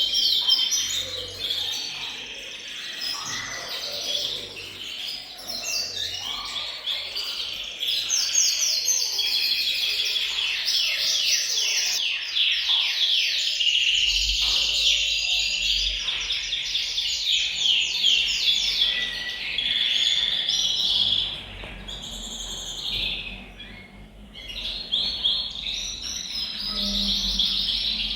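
Several male domestic canaries singing together, in overlapping rapid trills and rolls of fast repeated notes, with a short lull about three quarters of the way through.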